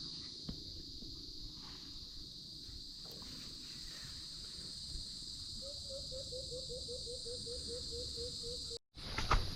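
Night insect chorus, a steady high-pitched drone. Past the middle an animal gives a run of about a dozen short notes, about four a second, sinking slightly in pitch. The sound cuts out briefly near the end.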